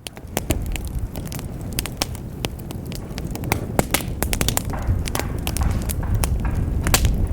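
Wood fire in a fireplace crackling, with frequent sharp pops and snaps over a low, steady rumble of the flames, fading in at the start.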